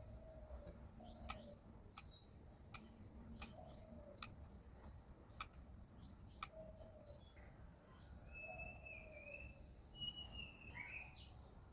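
Faint bird calls: short chirps and, late on, two longer wavering whistled notes. Sharp single clicks are scattered through the first half.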